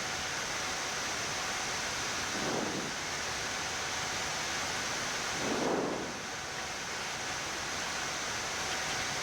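Steady hiss of the Boeing 787 flight deck's air conditioning and cooling fans on the ground, with a faint high steady tone. Two brief low rushes rise out of it about two and a half seconds and six seconds in.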